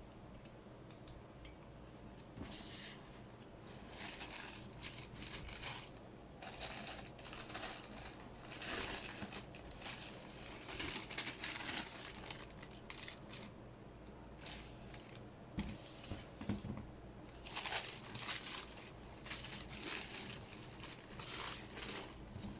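Packaging paper crinkling and rustling in irregular bursts as a sneaker box is unpacked by hand, with short pauses between handlings.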